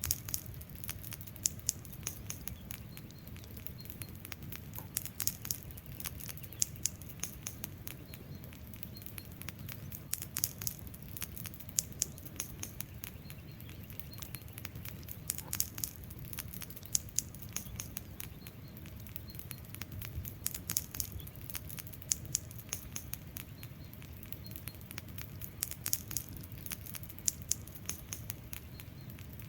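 Wood fire crackling, with frequent irregular sharp pops and snaps over a low steady rush of flames.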